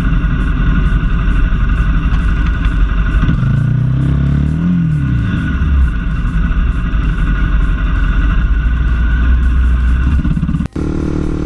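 A motorcycle running on the road, with steady engine and road noise and a pitch that rises and falls briefly about halfway through. Near the end the sound cuts off abruptly and changes to a different steady engine sound.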